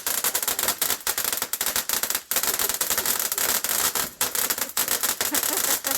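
Crackling firework going off, a rapid, continuous stream of sharp little pops and cracks.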